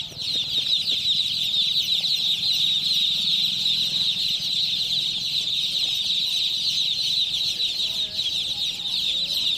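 A large crowd of young chicks cheeping all at once: a dense, unbroken chorus of high, short peeps.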